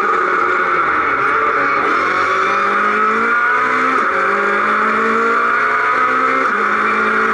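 Citroën C2 R2 rally car's four-cylinder engine at full throttle, heard from inside the cabin. Its pitch climbs and drops back sharply three times as the car accelerates and changes up from first into second.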